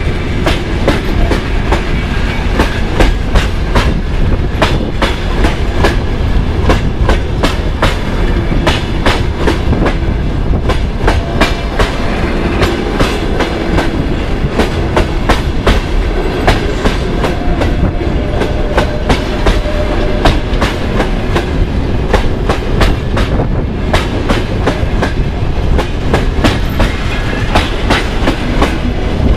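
Passenger coaches rolling past close by, their wheels clattering over rail joints in a continuous clickety-clack of sharp clicks and knocks over a steady rumble.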